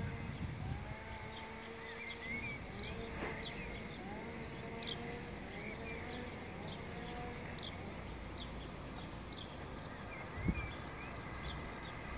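Small birds chirping repeatedly over a low steady rumble, with faint drawn-out whining tones.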